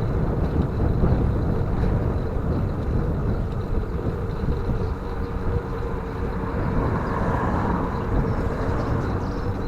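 Wind buffeting the microphone and rolling road noise while riding a bicycle: a steady low rumbling noise with a faint steady hum over it.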